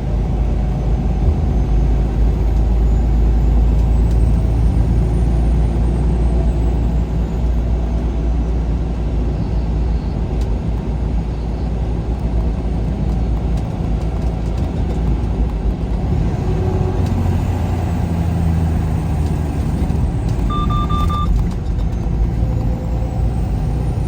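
Steady low rumble of a semi-truck's engine and road noise heard from inside the cab while driving. A short electronic beep sounds once about twenty seconds in.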